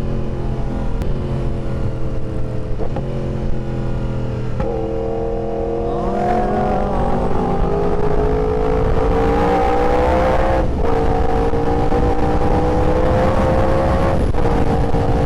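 Yamaha R1's inline-four engine pulling hard under acceleration, its pitch climbing steadily, with brief dips where the rider shifts up about two-thirds of the way through and again near the end.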